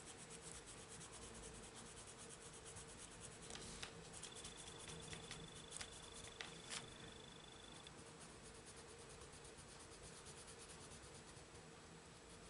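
Faint scratching of a wax-based coloured pencil on paper, in quick back-and-forth strokes as an area is filled in, with a few small clicks midway.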